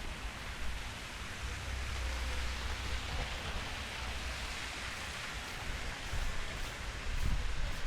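Steady hiss of a snowstorm outdoors, wind and blowing snow, over a low rumble that swells a couple of times.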